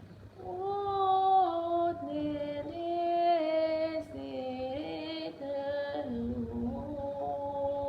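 A woman's voice toning wordless sustained notes as channelled healing sound frequencies, gliding from one held pitch to the next and stepping mostly downward.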